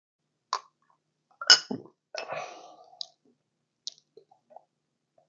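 A few sharp clicks and knocks, the loudest about a second and a half in, and a short breathy exhale about two seconds in, from a person handling the glass and breathing out just after downing a drop shot.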